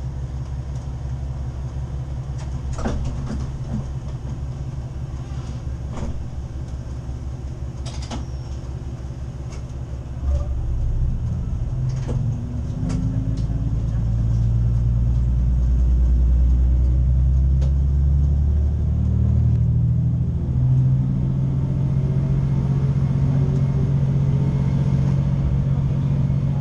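Diesel railcar engine and running gear rumbling, with a few sharp clicks early on. About ten seconds in the engine note grows louder, and it then rises in pitch several times as the train gathers speed.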